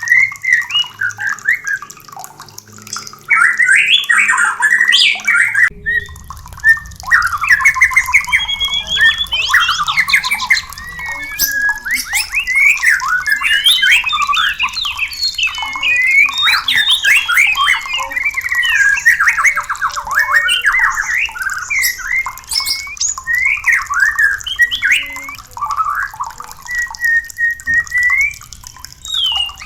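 White-rumped shamas (murai batu) calling in breeding condition: a dense, continuous run of fast, varied whistled phrases and rattling calls, with a short break about six seconds in.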